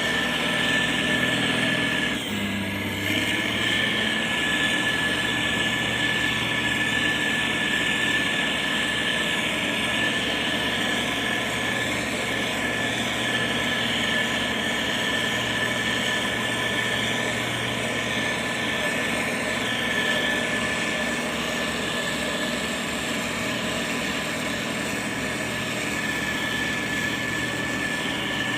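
Motor grader's diesel engine running steadily, with a steady high whine over it. The engine note shifts about two seconds in.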